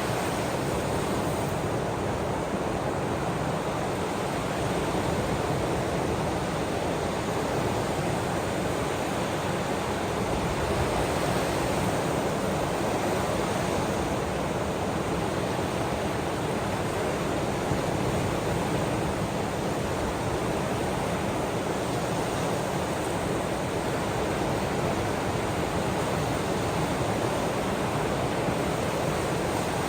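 Ocean waves and rain making a steady, even wash of noise with no distinct breakers and no music.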